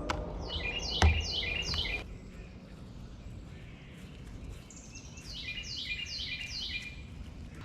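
A songbird singing two phrases, each a quick run of four or five downslurred whistled notes, about five seconds apart. A single sharp knock comes about a second in.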